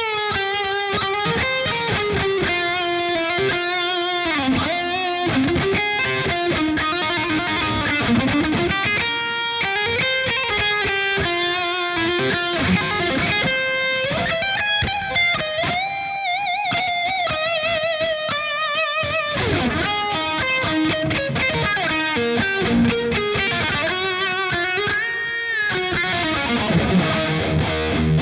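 Electric guitar played fingerstyle without a pick through an amp and effects processor, a solo melodic lead of sustained notes with bends and vibrato. Lower notes come in near the end.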